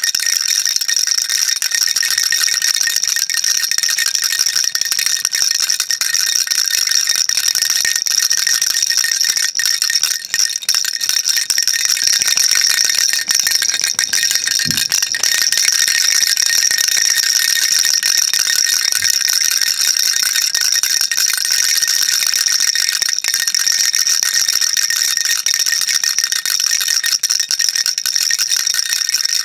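Baby rattle shaken without a break, a dense, bright, high-pitched rattling.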